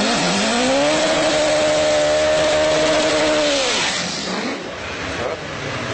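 A person imitating a Nissan SR four-cylinder engine with his mouth: a buzzing engine note that climbs in pitch, holds steady for a few seconds, then drops away about four seconds in, followed by fainter wavering sounds.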